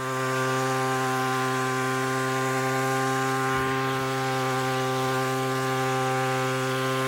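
Tea harvester's 25cc two-stroke petrol engine running steadily, its buzzing note holding the same pitch and level throughout.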